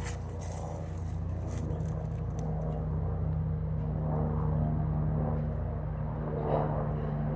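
Echo string trimmer's small two-stroke engine idling steadily just after a cold start, with a slight rise in level about three seconds in.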